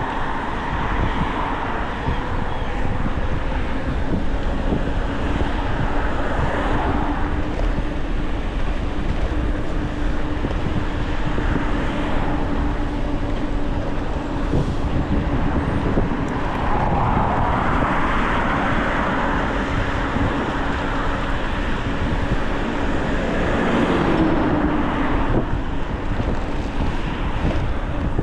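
Wind rushing over the microphone of a moving e-bike on a road, with cars passing by and a steady hum through the middle. One passing vehicle is loudest about two-thirds of the way in.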